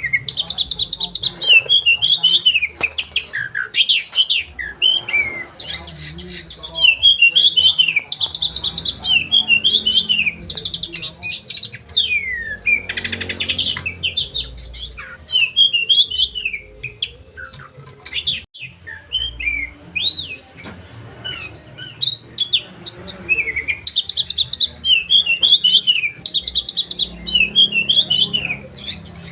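Oriental magpie-robin (kacer) singing loudly and almost without pause: a sharp, varied song of rapid rolling trills and quick whistled phrases, showing off its repertoire, with a brief break about two-thirds of the way through.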